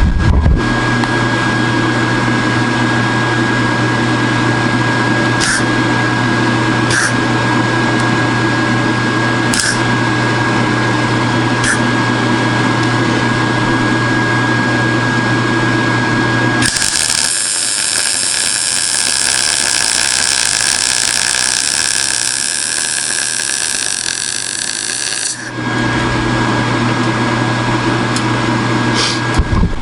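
A handheld power tool runs at a high-pitched whine for about nine seconds, starting a little past halfway. Before and after it there is a steady mechanical hum with a thin high tone and a few faint ticks.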